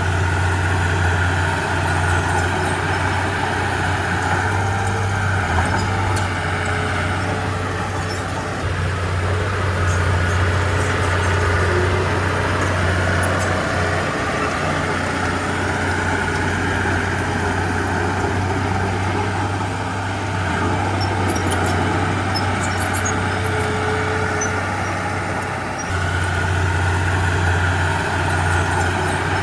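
Komatsu D31P bulldozer's diesel engine running steadily while working, its sound shifting a little with load. The engine grows louder about 26 seconds in.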